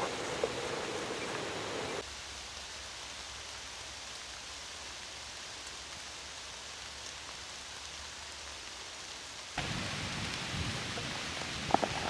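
Steady rain falling, an even hiss, with a steady low rumble under it through the middle stretch. The sound changes abruptly about two seconds in and again near the end, where a few sharp taps stand out.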